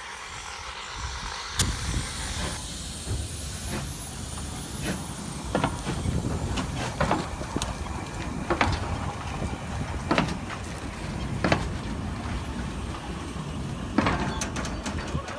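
Small 1861 Robert Stephenson steam locomotive moving slowly: a steady hiss starts about one and a half seconds in, with sharp metallic clanks roughly every second and a half.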